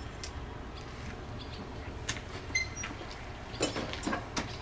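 A few light, scattered metal clicks and one brief ring as steel horseshoe and farrier's tools are handled, over a low steady hum. Near the end there is a short creak-like sound.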